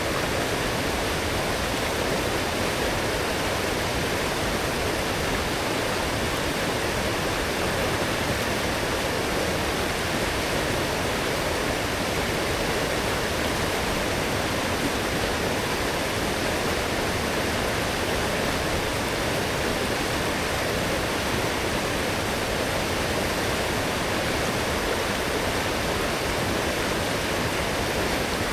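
Forest stream running strong and full after heavy rain: a steady, even rush of flowing water.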